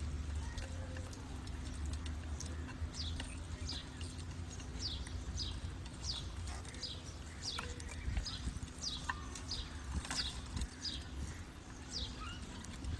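A bird repeatedly giving short, high, down-slurred chirps, about two a second, over a steady low rumble.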